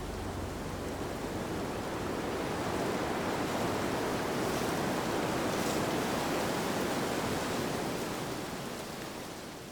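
Steady rushing outdoor noise, swelling slightly in the middle and fading out near the end.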